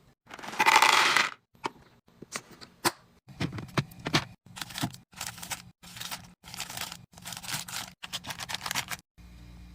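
Food packaging and containers being handled while stocking a fridge: a string of short crinkles, scrapes and clacks, with a louder rustling burst about a second in. Near the end this gives way to a low steady hum.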